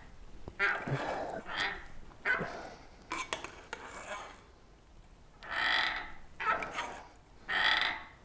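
Eastwood hand-operated shrinker being worked on a sheet-steel flange, its jaws freshly oiled and offset: several creaking strokes with sharp clicks, each squeeze lasting about half a second to a second.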